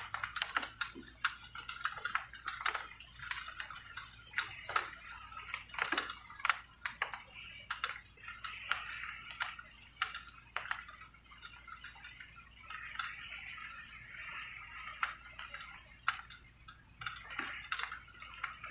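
Rain dripping, individual drops ticking irregularly over a faint steady patter.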